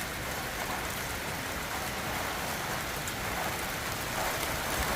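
Thunderstorm downpour arriving: a steady hiss of heavy rain that grows a little louder about four seconds in.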